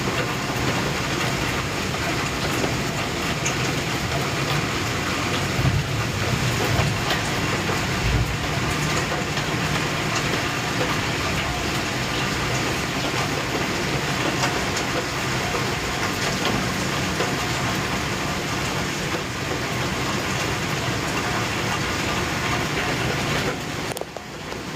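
Heavy rain pouring steadily in a thunderstorm, an even rushing hiss with a brief dip near the end.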